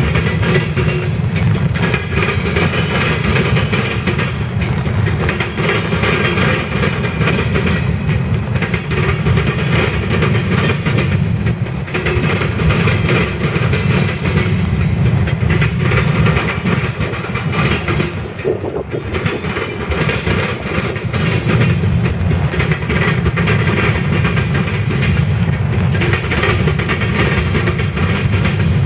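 Freight cars of a grain train rolling past, a steady rumble of steel wheels on rail with rapid clicking over the rail joints.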